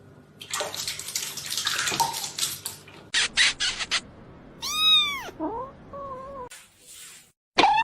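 A domestic cat meows once, a call that rises and then falls in pitch about two-thirds of the way through, followed by a couple of softer, lower calls. Before it there are a couple of seconds of rushing noise and a short run of clicks.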